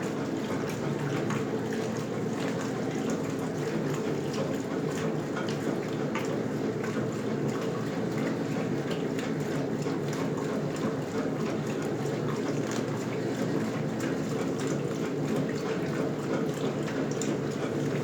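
1977 Westinghouse Lavínia (LWAAP6KX) washing machine running, water rushing steadily over a low hum.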